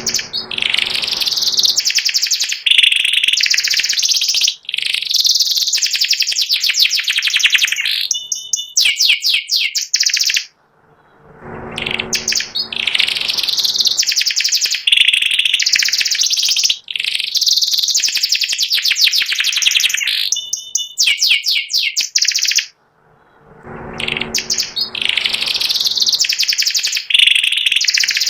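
Domestic canary of the white 'panda' variety singing long, loud, high-pitched songs of rapid trills and chattering phrases. The song comes in three near-identical bouts, about twelve seconds apart, each separated by a brief pause.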